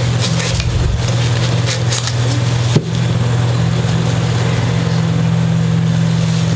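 Short scraping strokes of a blade on wood, cleaning old glue out of an instrument's nut slot, over a steady low electrical-sounding hum. The scraping is heard in the first two seconds, and there is a single sharp click about three seconds in.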